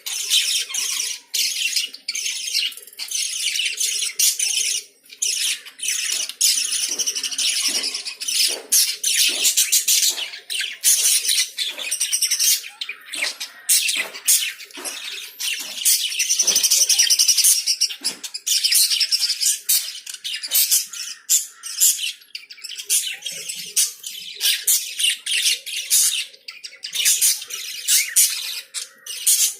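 A flock of pet lovebirds chirping and calling together: a dense stream of short, high-pitched, overlapping chirps, busiest about halfway through.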